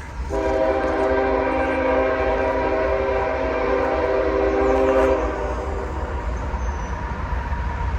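Locomotive horn sounding one long chord of several held notes, lasting about five seconds before it cuts off, leaving a low rumble.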